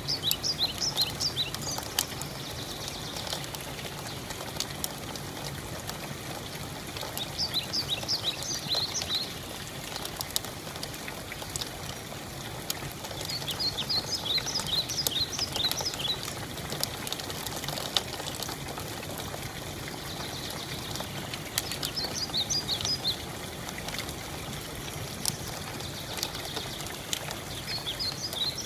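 Steady rain, with a bird singing a short phrase of quick repeated notes about every six seconds and a few sharp single ticks.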